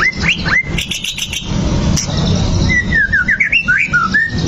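White-rumped shama (murai batu) singing: a few quick sweeping whistles, a burst of rapid high chattering notes about a second in, then a run of short, varied whistles in the second half, over a steady low background rumble.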